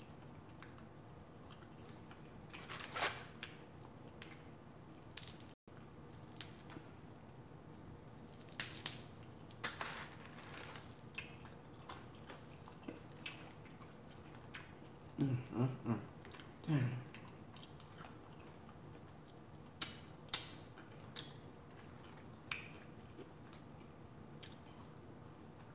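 Close-up eating sounds of a person chewing and biting hard-fried lemon pepper chicken wings: scattered crisp crunches and wet mouth clicks. A short, low vocal sound from the eater comes about halfway through.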